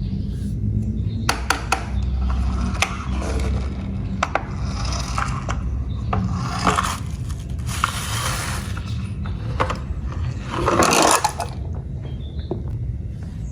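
Plastic toy cars being handled and rolled: repeated sharp clicks and scraping over a low rumble, with a few short rushes of noise, the loudest about eleven seconds in.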